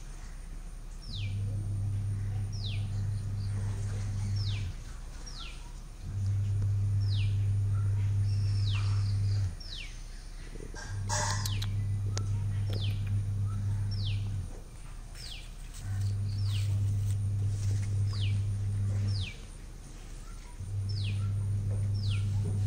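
A bird repeating a short, downward-sliding call about once a second, over a loud low hum that comes and goes in stretches of three to four seconds. A sharp click comes about eleven seconds in.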